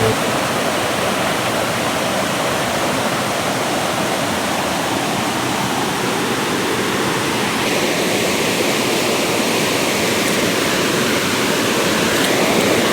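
Small waterfall running: a steady rush of falling water.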